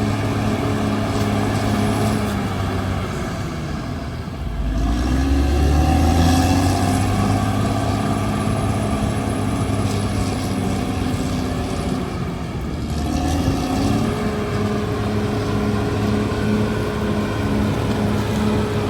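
CAT D6R crawler bulldozer's diesel engine working steadily. Its note sags about four seconds in and again near twelve seconds, climbing back up in pitch each time.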